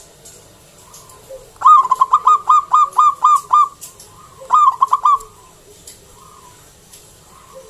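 Zebra dove (local perkutut) cooing: a loud, quick run of about nine short staccato notes, then after a brief pause a burst of three more.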